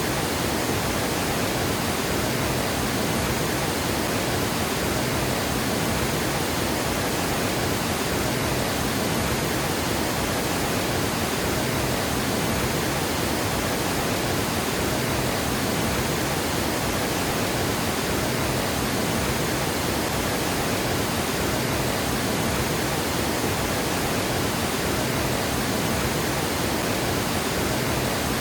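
Water pouring over a dam spillway in a steady, unbroken rush.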